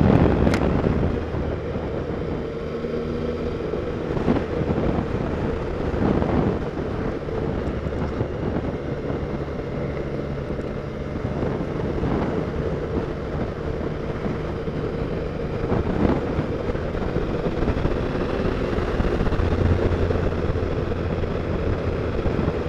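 Triumph Sprint GT's three-cylinder engine running steadily under way, with wind and road noise.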